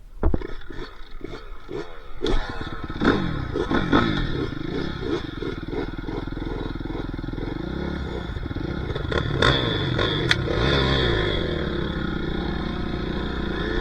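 Dirt bike engine pulling away in first gear, revving up and falling back in short repeated bursts for the first few seconds, then running steadily at higher revs. A sharp knock comes right at the start and two sharp clacks come about ten seconds in.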